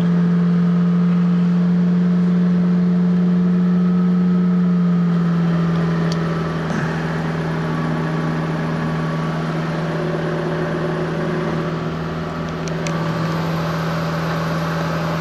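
Fiat Panda 4x4 Sisley's carburetted engine idling on part choke just after a cold start, a steady hum. About five seconds in the idle speed drops slightly and the engine gets a little quieter, then holds steady.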